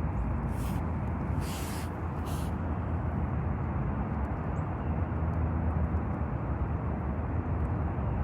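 Steady outdoor background noise with a strong low rumble, and a few short hissing sounds in the first couple of seconds.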